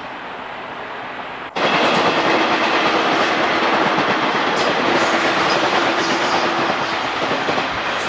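Japanese National Railways train passing close by on the Tōhoku Main Line, its wheels clattering over the rail joints. About one and a half seconds in, the sound jumps abruptly from quieter track noise to the loud passing train.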